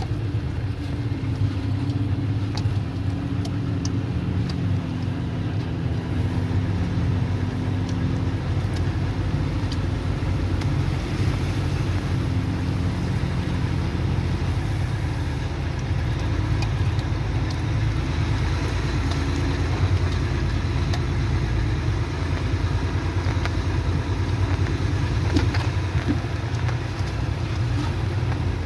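A motor vehicle's engine running steadily at low speed, with light clicks and rattles over it.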